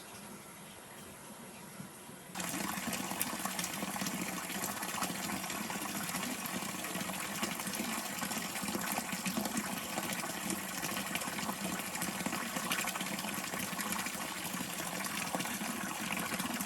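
Steady rushing water, a dense even hiss, which starts abruptly about two seconds in after a quieter stretch.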